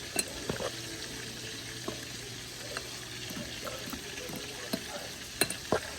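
Steady hiss of chicken wings frying in a deep fryer, with a few sharp clicks of a utensil against a mixing bowl as waffle batter is stirred.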